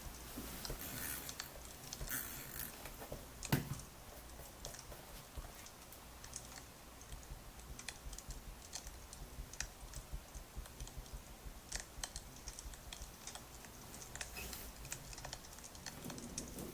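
Wood fire crackling: many small irregular clicks and pops over a soft hiss, with one sharper pop about three and a half seconds in.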